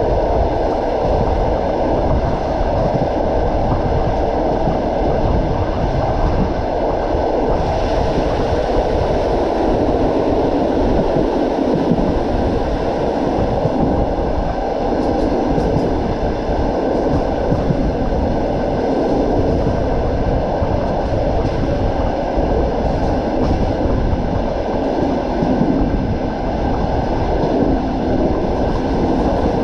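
Passenger train running along the track, heard from inside a carriage: a steady, loud rumble of wheels on rails with a faint clatter, growing a little hissier about eight seconds in.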